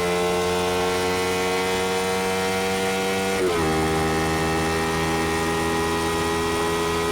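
Honda XL125V Varadero's 125 cc V-twin engine through a BlackWidow aftermarket exhaust, running under way. The note climbs slowly, dips sharply about halfway through, then holds steady.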